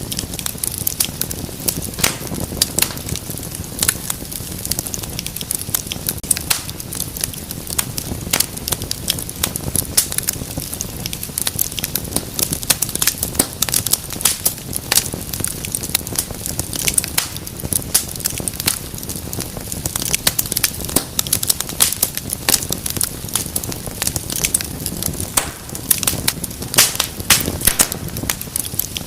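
Wood fire in a fireplace crackling steadily, with frequent sharp snaps and pops over a low, even rumble of flame.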